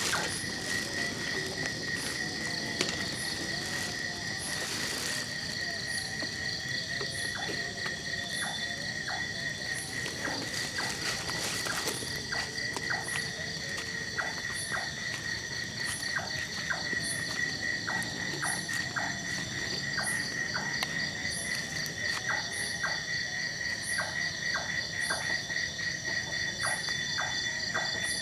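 Night chorus of insects: crickets trilling steadily on one high pitch, overlaid by a higher chirp and a short sharp click that each repeat about once a second.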